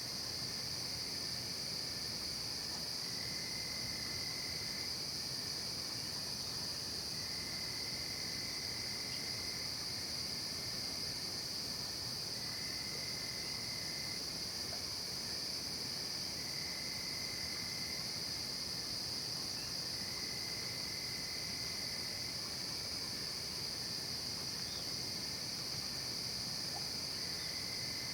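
Night insect chorus of crickets: a steady, unbroken high-pitched trilling, with a lower trill that sounds in stretches of a second or two and drops out, about every three to four seconds.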